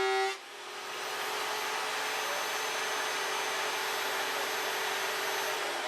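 Vevor electric wood planer running with a steady motor whine and a loud, even rush of its cutterhead planing a board. Near the end the whine begins to drop in pitch as the motor slows.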